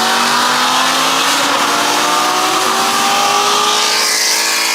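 Car engines at full throttle in a street race, engine pitch rising steadily through one long pull in a single gear.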